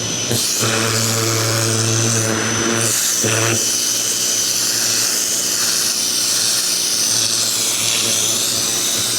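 Ryobi 2000 PSI electric pressure washer running: its pump motor hums under the steady hiss of the water jet. The hum is strongest in the first few seconds, with a brief dip about three seconds in.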